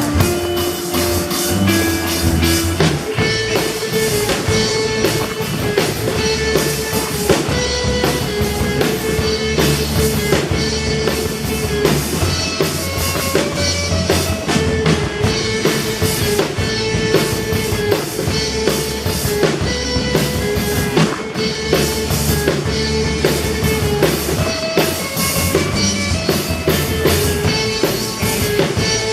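A rock band playing live: a drum kit keeping a steady beat under electric guitars and bass, with a sustained, bending melody line held over the top.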